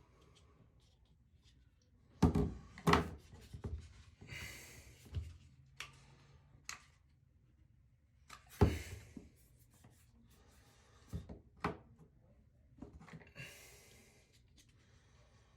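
Tools and parts being handled during plumbing work: a string of separate knocks and clunks, the sharpest about two seconds in and again near the middle, with scraping and rustling between them.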